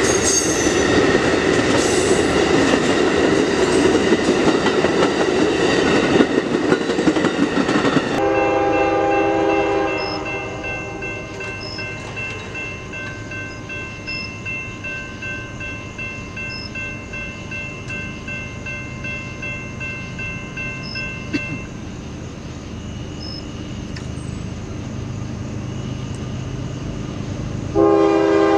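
An Amtrak passenger train runs over a grade crossing with rushing, clattering wheels, which cut off suddenly about eight seconds in. A train horn then sounds briefly and fades. Quieter steady ringing tones from the crossing warning bell follow, and near the end a train horn starts blowing loudly.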